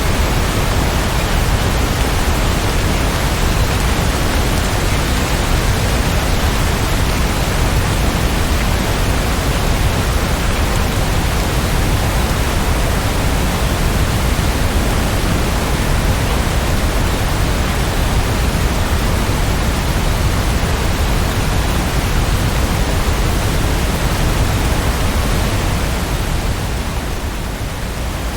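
Steady rainfall: a dense, even hiss of rain with no separate drops or thunder standing out, easing slightly for a moment near the end.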